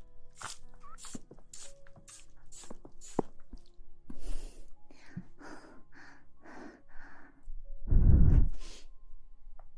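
Close-miked ASMR rustling and scratching: a run of short brisk strokes, then several longer swishes, with a louder muffled bump against the microphone about eight seconds in. Quiet background music plays underneath.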